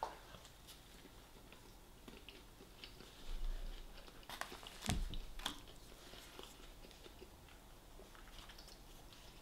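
A person chewing food close to the microphone, with wet mouth clicks and a few crisp crunchy bites clustered about halfway through, one with a low thump. It is the sound of eating a KFC chicken fillet burger.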